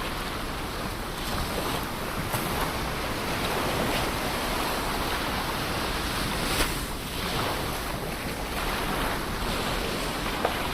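Ocean waves breaking and washing onto the shore: a steady rushing surf that swells and eases gently, with a few small clicks.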